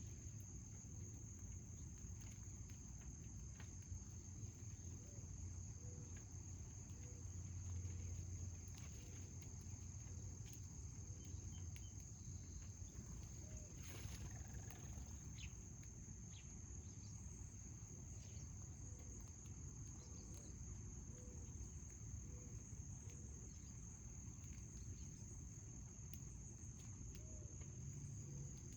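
A continuous, steady, high-pitched insect chorus over a faint low outdoor rumble.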